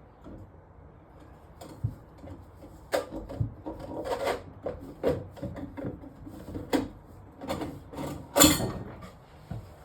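Clatter of plumbing parts and tools being handled while clearing a clogged kitchen sink drain: a string of irregular knocks and scrapes, the loudest about eight seconds in.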